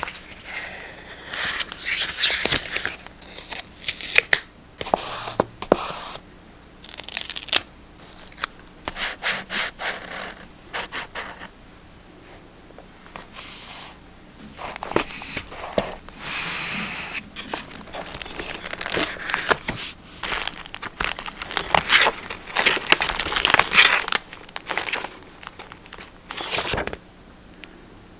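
Close-up paper crafting sounds: paper and stickers rustling, crinkling and tearing, with scattered sharp clicks and taps in irregular bursts broken by short pauses.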